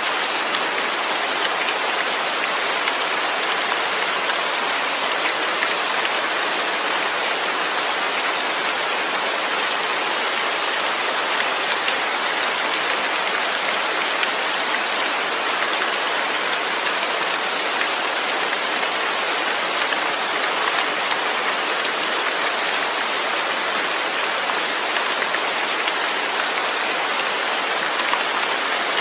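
Steady rain falling, with a dense even patter of drops on a surface.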